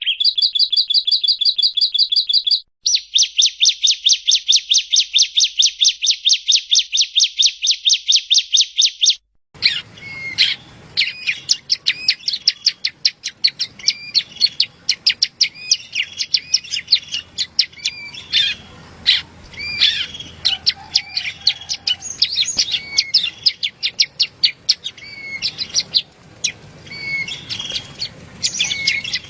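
Recorded song of a prenjak rowo (yellow-bellied prinia): a rapid trill of repeated high chirps, about ten a second, for the first nine seconds or so. After a short break, scattered varied chirps and whistling notes over a steady background hiss and hum.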